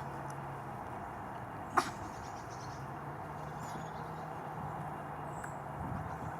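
A German Shepherd puppy gives a single short, sharp yelp about two seconds in, over a steady background hum.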